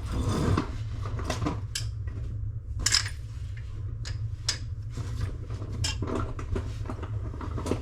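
Scattered light clinks and knocks of hard objects and tools being handled, about half a dozen over several seconds, over a steady low hum.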